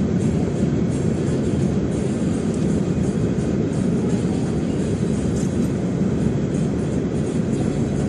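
Steady low rumble of a vehicle in motion, road and engine noise without any sudden impact.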